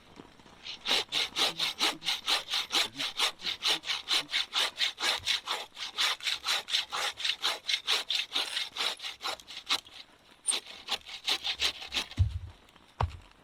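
Hand saw cutting wood in quick, even back-and-forth strokes, about four a second. It stops briefly, makes a few more strokes, and then there are two low thumps.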